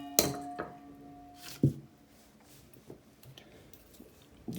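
A kitchen bowl rings with a steady tone after being clinked. A soft knock stops the ringing about a second and a half in, and faint handling sounds follow.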